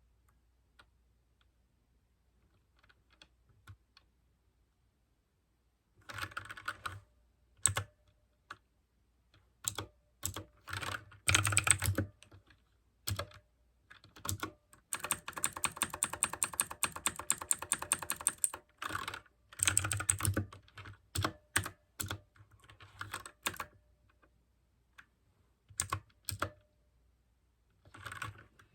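Typing on a mechanical keyboard with clicky blue switches, in irregular bursts. Almost quiet for the first few seconds, then short runs of keystrokes, a long fast run in the middle, and pauses between.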